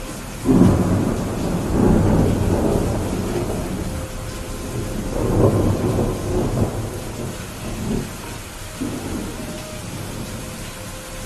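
Thunder breaking about half a second in and rumbling on in several rolling waves that die away over about eight seconds, over the steady hiss of rain.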